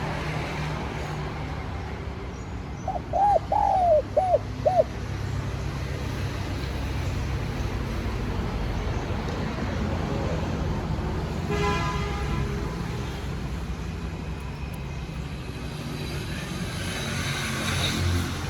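Spotted dove cooing one phrase of four short arched notes, about three seconds in, over a steady low rumble like distant traffic.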